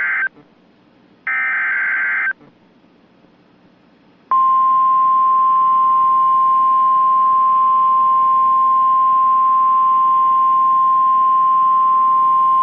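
NOAA Weather Radio alert signals: the end of one SAME digital header burst and then another full burst, each a harsh electronic warble about a second long. After a short pause the steady 1050 Hz warning alarm tone begins about four seconds in, a single loud, unbroken pitch marking the start of a severe thunderstorm warning.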